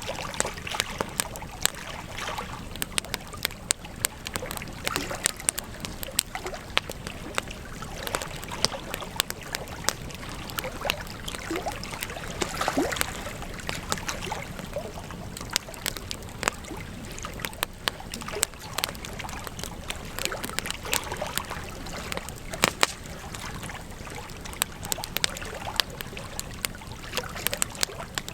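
Wood campfire crackling, with frequent sharp pops and snaps over a steady hiss of burning.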